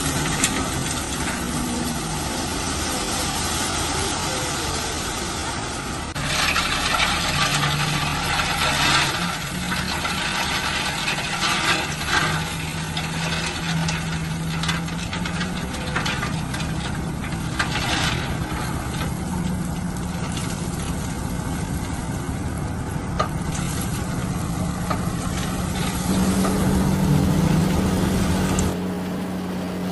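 Heavy construction machine's diesel engine running, its note shifting up and down, with stretches of loud rattling, scraping noise about six seconds in and again later. Near the end the sound changes abruptly to a different engine note.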